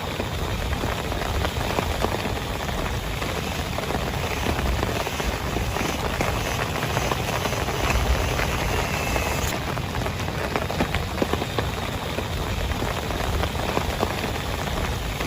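Heavy rain falling steadily, a dense hiss with many individual drop ticks scattered through it.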